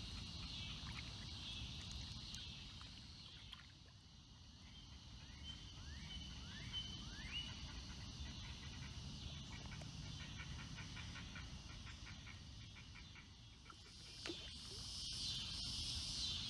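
Evening chorus of crickets and tree frogs: a steady high insect drone that fades and then swells again near the end. It is broken by a few short rising chirps and, in the middle, a rapid even pulsing trill, over a low rumble. A few sharp knocks come near the end.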